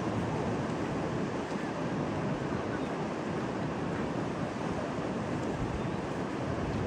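Rough, storm-driven sea surf: a steady rushing of waves, with wind.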